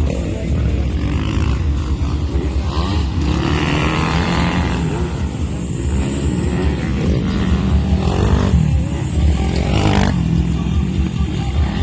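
Several motocross bikes' engines revving and racing past, their pitch repeatedly rising and falling as the riders work the throttle, over a steady low rumble.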